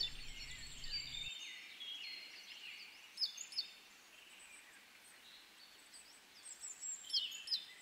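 Several songbirds chirping and whistling faintly, with a couple of sharp notes about three seconds in and a quick run of calls near the end.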